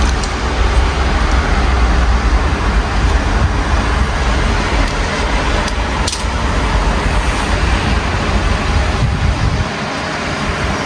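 Steady rain mixed with city street traffic, heard through an open window, with a constant low traffic rumble and a few sharp drip ticks. The low rumble drops briefly near the end.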